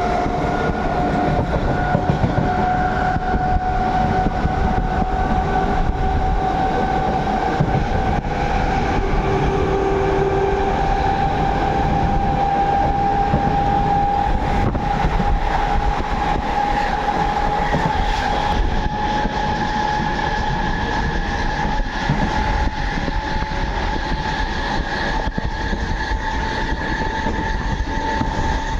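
Passenger train running: a loud, steady rumble of wheels on track with a whining tone that slowly rises in pitch.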